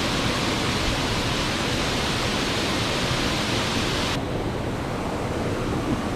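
Steady hiss of rain falling. About four seconds in the brighter, higher part of the hiss drops away suddenly, leaving a duller rain sound.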